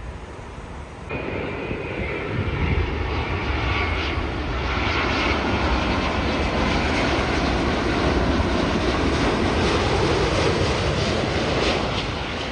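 Jet airliner passing close by: a loud engine roar with a high steady whine, rising sharply about a second in, holding loud through the middle and easing a little near the end.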